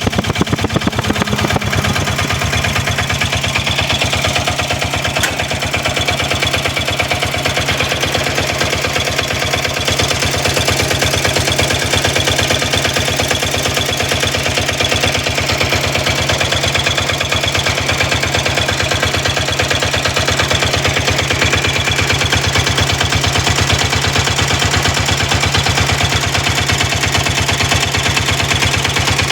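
Bajaj auto-rickshaw diesel engine, freshly rebuilt, idling steadily with a rapid, even diesel clatter.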